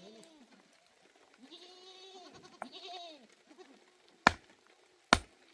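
A goat or sheep bleats, a call ending just after the start and a longer, wavering one from about one and a half to three seconds in. Near the end come two sharp, loud knocks about a second apart.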